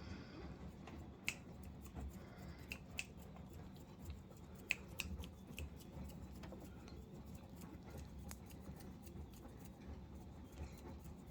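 Scattered faint clicks and light taps of kittens moving about, over a low steady hum.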